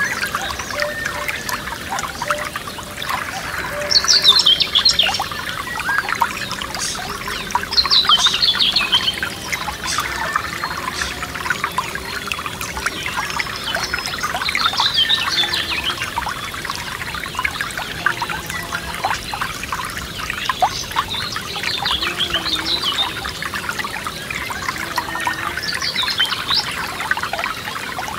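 Forest stream babbling and trickling over stones, a steady splashing. Above it a songbird repeats a short, falling, trilled phrase about five times, every five or six seconds.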